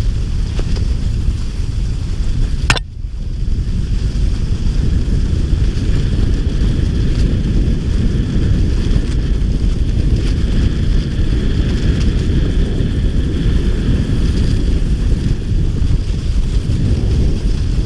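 Wind buffeting the microphone, a steady low rumble, with one sharp click about three seconds in.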